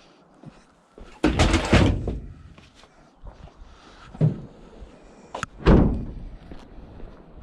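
Van door opening with a bang, a smaller knock, then the door slamming shut.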